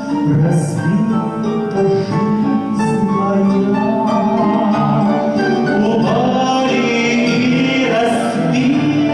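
Live stage accompaniment to a Russian retro song: several instruments play sustained chords, with a wavering melody line coming in about six seconds in.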